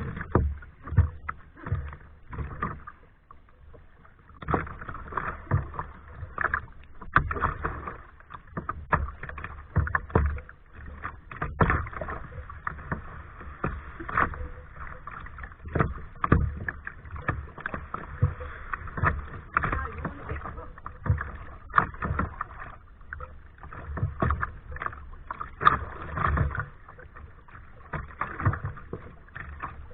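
Kayak paddling: paddle blades dipping and splashing into the water stroke after stroke, with uneven sharp splashes and knocks over a running wash of water.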